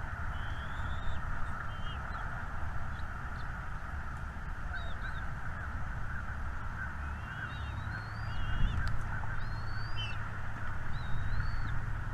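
Small birds chirping: short, high, curving whistled notes repeated every second or so, over a dense steady twitter and a low rumble.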